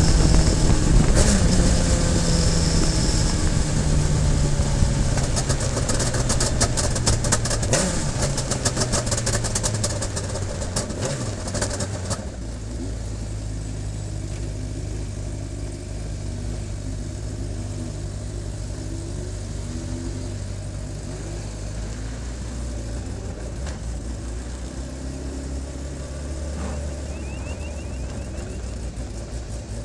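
Radical SR3 sports racing car's motorcycle-based four-cylinder engine heard on board, slowing down with a falling engine note and a rapid run of clicks and rattles. About twelve seconds in it drops to a steady, quieter running at low revs.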